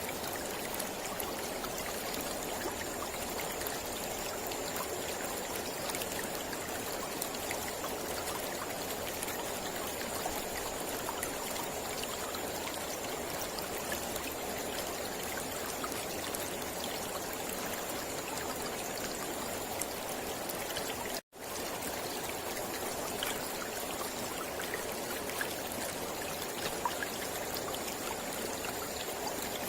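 Mountain river flowing steadily, a constant rush of water. The sound cuts out completely for an instant about two-thirds of the way through.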